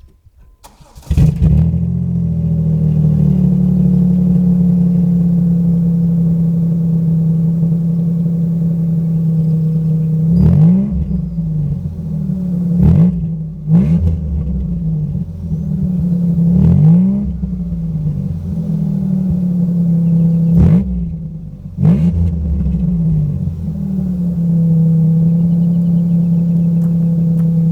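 1996 Chevrolet Monte Carlo Z34's 3.4 DOHC V6 starts about a second in and settles into a steady idle. It is blipped in several quick revs, each rising and falling back to idle, then idles again. The exhaust runs through Flowmaster mufflers that are completely hollow with rust holes in the bottom.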